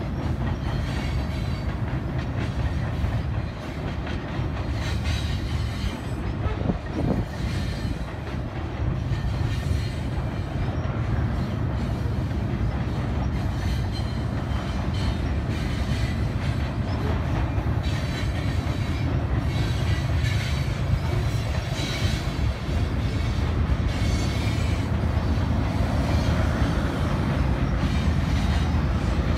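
Long freight train of covered hopper cars rolling across a steel trestle bridge: a steady rumble and clatter of wheels on rail.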